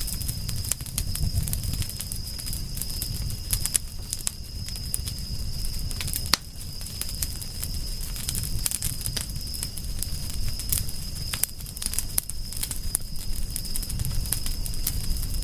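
Wood fire crackling, with frequent sharp pops and snaps over a low, steady rumble of the burning flames.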